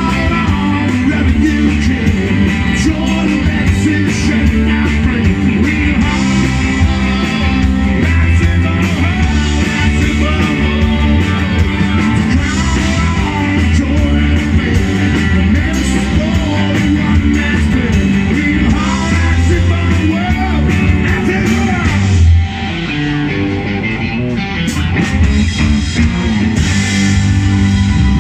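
Rock band playing live, with guitars, drums and singing; the band drops to a quieter passage about three-quarters of the way through, then comes back up.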